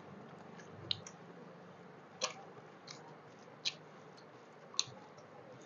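Quiet eating sounds: chewing with four short, sharp mouth smacks about a second apart.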